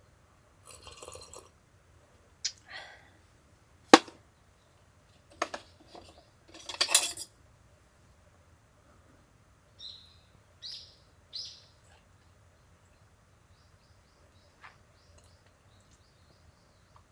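Tableware and cooking utensils being handled: scattered clinks and knocks, the sharpest about four seconds in, with a few rustling bursts. Three short bird chirps come a little past the middle.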